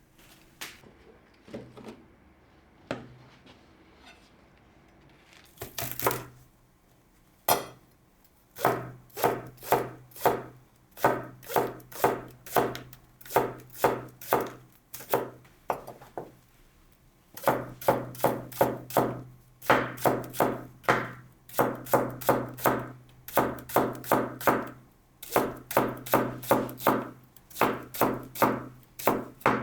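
Kitchen knife chopping food on a cutting board. It starts with a few scattered knocks, then settles into runs of steady, evenly spaced cuts, about two or three a second, with short pauses between runs.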